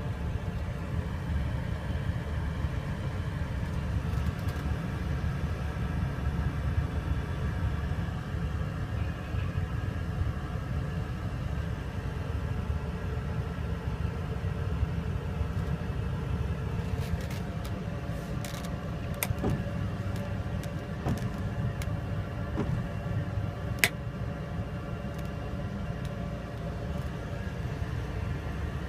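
An engine running steadily with a low rumble and a constant hum. Several sharp clicks come between about two-thirds and four-fifths of the way through, the loudest near the end of them.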